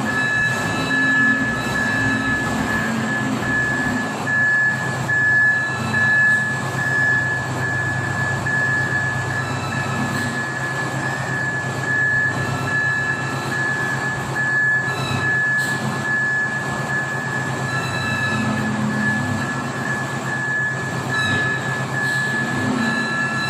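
Wheel loader's turbocharged diesel engine running steadily, with a constant high-pitched whine over the low drone.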